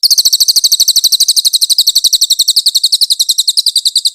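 Cililin bird singing one long, rapid trill of high, evenly repeated notes, about thirteen a second, that starts and stops abruptly.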